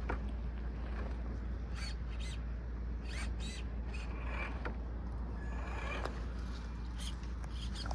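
Radio-controlled crawler truck working over dirt and rock: scattered clicks and short crunches, with a brief thin whine of its electric motor and gears about six seconds in, over a steady low rumble of wind on the microphone.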